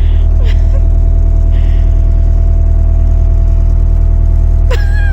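Sailboat's inboard engine running steadily under way, a loud, even low drone with a constant hum above it. A brief high falling call cuts in near the end.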